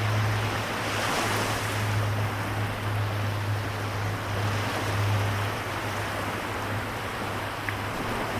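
Waves washing on the shore as a continuous wash of surf, swelling about a second in, over a steady low hum.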